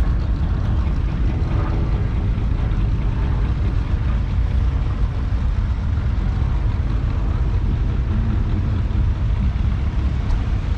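1954 Allis-Chalmers Model B tractor's 2.1-litre four-cylinder petrol engine running steadily.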